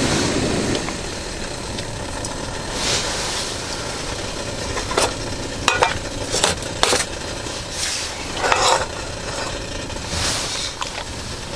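A steady sizzling hiss with a cluster of sharp metal clinks about halfway through and a few short scrapes, like utensils working in a pan.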